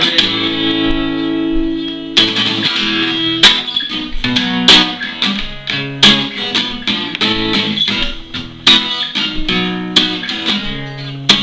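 Instrumental guitar music with no singing: a chord rings for about two seconds, then the guitar plays sharply struck chords and plucked notes.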